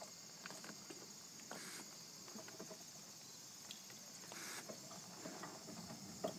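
Faint evening chorus of crickets and other insects: a steady, high-pitched trill, with a few soft ticks and rustles scattered through it.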